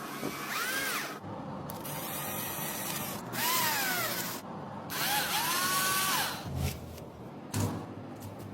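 Small power drill running in four short bursts, its whine rising and falling in pitch as it speeds up and slows down between bursts, followed by two low knocks near the end.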